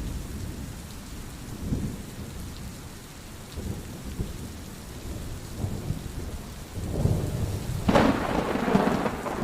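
Thunderstorm: steady rain with low rolling thunder that builds about seven seconds in to a loud thunderclap, still rumbling at the end.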